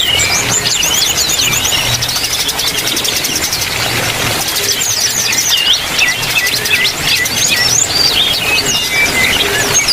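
A group of caged birds, yellow-vented bulbuls and smaller birds, chirping and twittering, with many short calls overlapping throughout.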